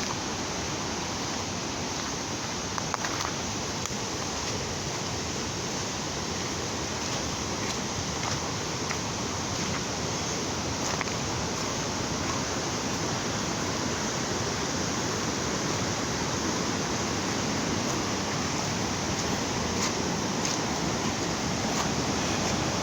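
Steady, unbroken rushing of fast-flowing river water.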